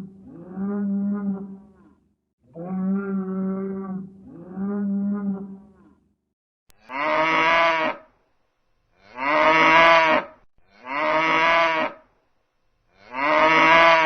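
Farm animal calls: two pairs of long, low, steady calls, then four louder, brighter calls with a wavering pitch, each lasting about a second.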